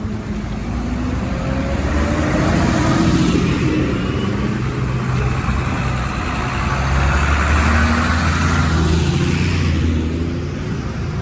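Tractor engines running as tractors drive past, the sound swelling twice, about three seconds in and again about eight seconds in.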